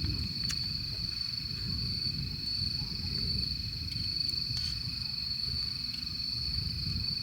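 Wind buffeting the microphone, a steady low rumble, with a steady high-pitched whine and a few faint clicks over it.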